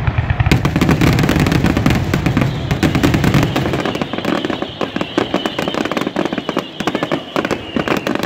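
Fireworks finale barrage: a dense run of rapid bangs and crackling. A heavy low booming is strong for the first few seconds and eases off after about three seconds, while the crackling goes on.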